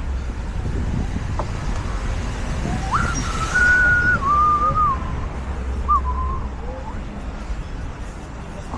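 A person whistling a short phrase of a few held notes about three seconds in, over a steady low wind rumble on the microphone.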